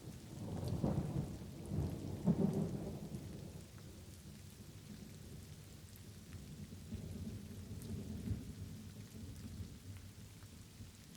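Light rain pattering steadily while thunder rolls: a low rumble swells within the first second, is loudest about two to three seconds in, then fades, with a softer rumble again a few seconds later.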